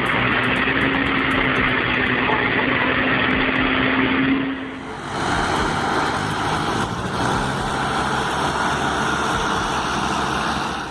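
Tractor engine running hard, a dense steady drone with a held low tone; about five seconds in it cuts abruptly to a different tractor engine running with a lower hum.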